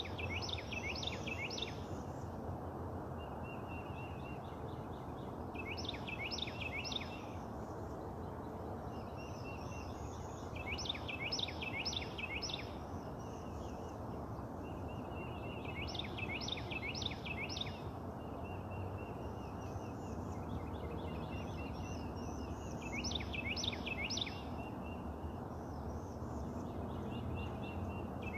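A songbird repeating the same short song five times, every five to six seconds: a quick run of three to five steeply down-slurred whistled notes, with fainter higher chatter between the songs. A steady low hiss of outdoor background noise runs underneath.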